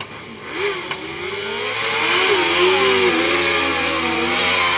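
Motorcycle engine revving. It grows louder over the first two seconds and then holds, its pitch wavering up and down.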